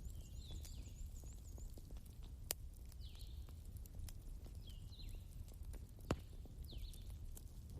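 Wood bonfire crackling, with scattered pops, two of them sharp and loud, over a low steady rumble. A bird calls repeatedly in short falling chirps, with a quick run of high notes in the first second or two.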